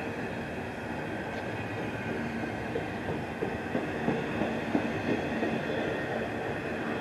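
Double-stack intermodal container cars of a CSX freight train rolling past: a steady rumble of steel wheels on rail with a faint high whine, and a run of sharp clanks between about three and five seconds in.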